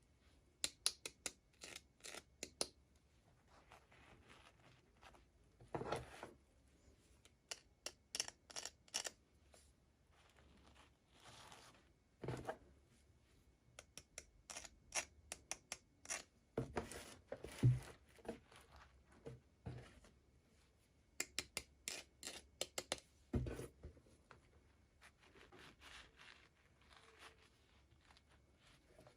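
Packaging being cut and opened by hand: quick runs of sharp snips and clicks with scratching and tearing, coming in clusters with short quiet gaps, the loudest a sharp tap a little past the middle.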